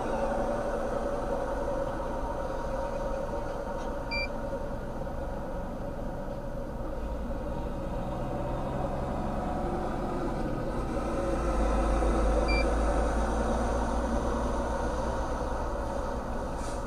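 Steady running noise of a motor vehicle, with a low rumble that swells about two-thirds of the way through. Two short high beeps sound about eight seconds apart.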